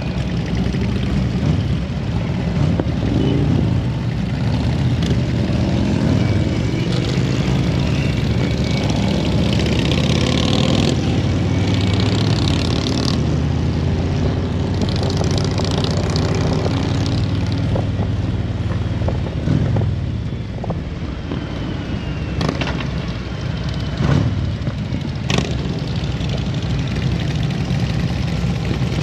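Motorcycle engine running steadily on the road, with a few sharp clicks in the second half.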